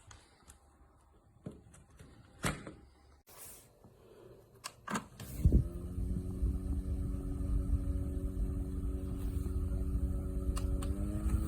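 Plastic clicks and knocks from handling a JISULIFE handheld mini fan, then its small electric motor and blades start about five and a half seconds in and run with a steady hum. The hum steps up slightly in pitch near the end, as at a change of speed.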